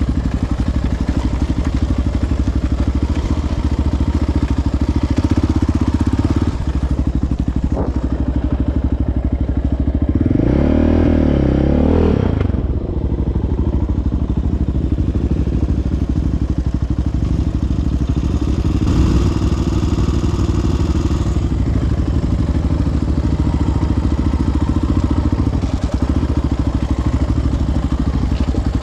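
Single-cylinder four-stroke ATV engine running on an off-road trail, its pitch rising and falling once in a short rev about ten seconds in.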